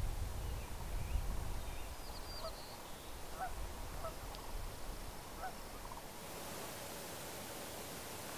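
Distant birds calling, a scatter of short faint calls, over wind rumbling on the microphone. About six seconds in the rumble drops away, leaving a steady hiss.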